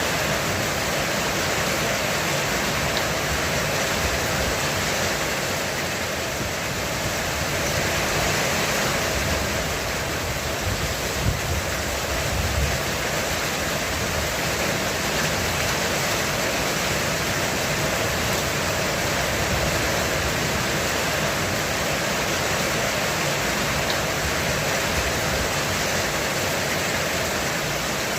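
Heavy rain pouring onto a roof, a steady, even hiss, with a brief low rumble about halfway through.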